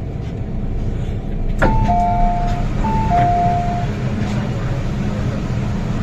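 MTR Kwun Tong Line M-Train car running, with a steady low rumble. About a second and a half in there is a click, then a two-note high-low chime sounds twice, the onboard lead-in to a passenger announcement.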